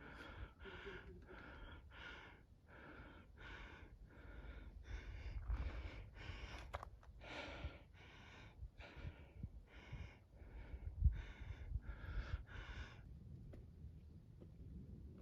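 A hiker breathing hard and fast, panting with rapid, even breaths about two a second while climbing a trail incline, until the breathing fades out near the end.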